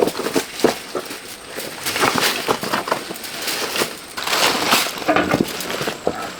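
Rocks and gravel knocking and scraping against each other in an irregular clatter as they are moved.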